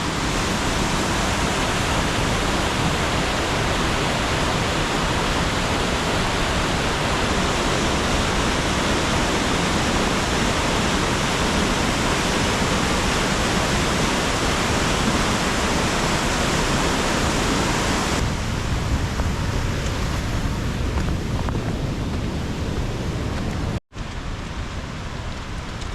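Loud, steady rushing of a waterfall in spate, swollen by heavy storm rainfall. About 18 seconds in the rush turns quieter and duller, and a split-second break of silence cuts it near the end.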